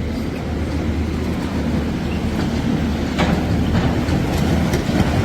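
Large hydraulic core drill running as it bores into rock, a steady low rumble with a few faint knocks, one about three seconds in.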